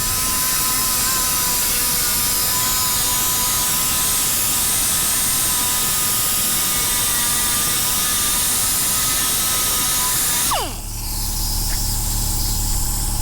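Small angle grinder with a sanding disc running steadily against fiberglass, with a high whine over the grinding noise. About ten and a half seconds in it is switched off and its whine falls in pitch as it spins down, leaving a low hum.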